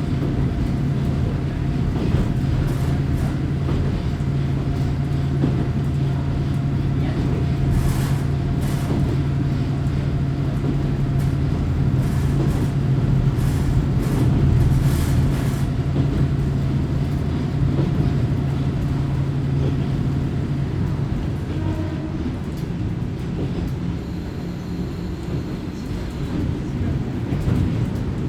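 A Kominato Railway diesel railcar heard from inside the passenger cabin while running: a steady engine drone with track noise and a few sharp clicks. About three-quarters of the way through, the engine note falls away and the car runs on more quietly, as when the driver shuts off power and the car coasts.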